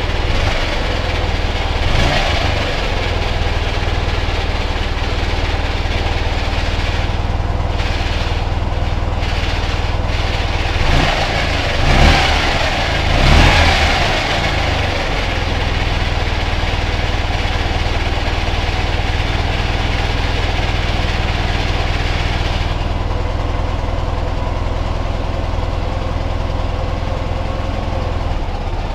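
Ural motorcycle's flat-twin engine running steadily, with a couple of brief throttle blips about halfway through before it settles back to an even run.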